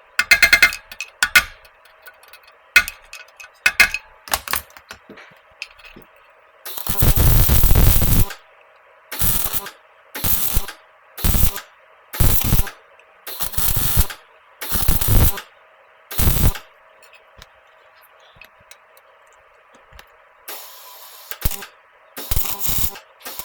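Electric welder laying a string of short weld bursts, each half a second to a second and a half long, stopping and starting, as a stainless steel patch is welded over a rusted-through hole in a thin stainless motorcycle exhaust pipe. There are light ticks in the first few seconds.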